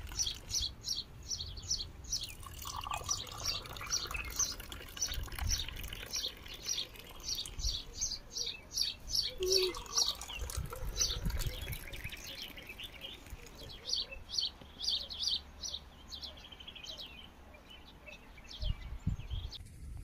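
A small bird chirping over and over, about three short high chirps a second. The chirping pauses about twelve seconds in, then starts again. Low rumbles sound now and then underneath.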